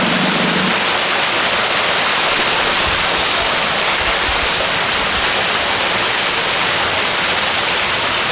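A loud, steady rush of falling water, an even hiss with no breaks.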